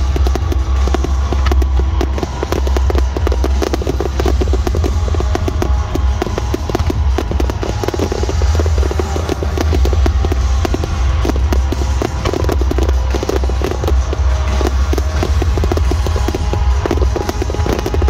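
A dense barrage of display fireworks: rapid, near-continuous bangs and crackles from many shells and comets going off together, over loud music played for the show.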